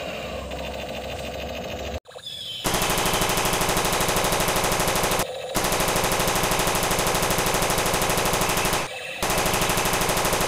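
Battery-powered toy M16 rifle firing its electronic machine-gun sound effect. About two seconds in it starts a fast, even rattle that runs in long bursts, with two short breaks.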